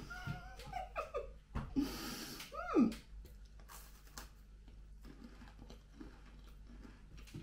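A person biting into and chewing a cream-filled saltine cracker. There is a crunch about two seconds in and a short falling "mm"-like vocal sound just after it, then quieter chewing clicks.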